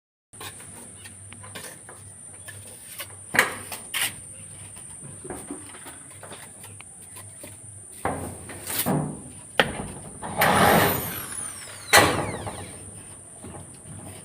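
Corrugated tin roofing sheets being handled and fixed: scattered knocks and clangs, with one longer scraping, wobbling sweep about ten seconds in. A steady high-pitched whine runs underneath.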